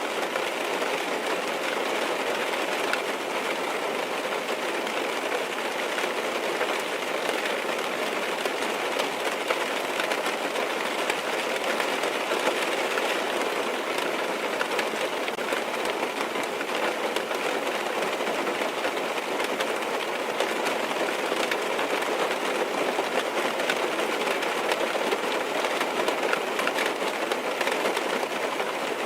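Steady rain tapping on a car's windows and roof, heard from inside the car: a dense, even patter of many drops.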